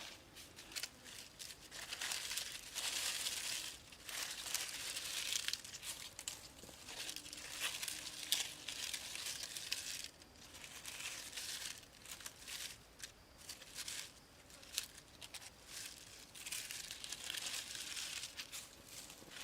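Dry, crinkly rustling and crackling in stretches of a few seconds each, broken by short clicks and brief quieter gaps.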